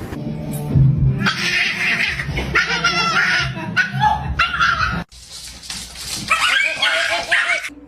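A dog barking and yipping in short, pitched calls. The sound breaks off abruptly about five seconds in, then similar calls resume.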